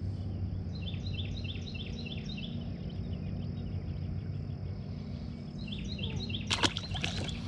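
A small songbird singing a quick run of repeated high chirps, about three or four a second, for the first few seconds, over a steady low outdoor rumble. A brief sharp knock about six and a half seconds in is the loudest moment.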